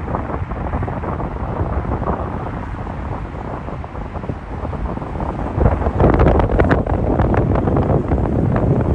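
Wind buffeting the microphone over a low, steady rumble, getting louder and gustier about six seconds in.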